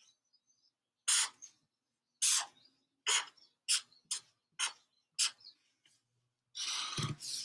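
Sharpie permanent marker drawn across paper in about seven short, squeaky strokes, then one longer continuous stroke near the end.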